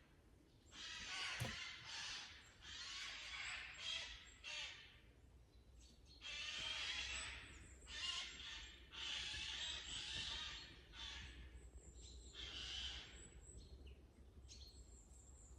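Woodland birds giving harsh, chattering calls in repeated bursts, thinning out near the end, with one sharp click about a second and a half in. The agitation is typical of birds alarmed by an approaching predator or intruder.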